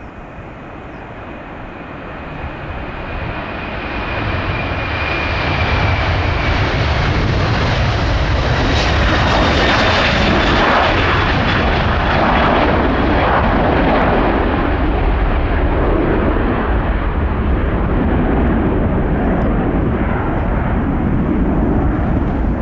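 Airbus A330-300 twin-engine jet airliner on its takeoff departure. The engine noise builds over the first five seconds or so as it approaches, with high fan whines that fall in pitch as it passes, then settles into a steady loud rumble.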